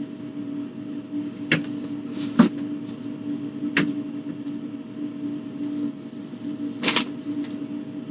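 Food containers and items being knocked and set down while a fridge is cleared out, giving four sharp knocks and clatters, the last one near the end the longest, over a steady low hum.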